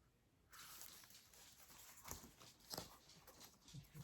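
Faint paper handling with a few light taps as a desk calendar's page is flipped over to the next month.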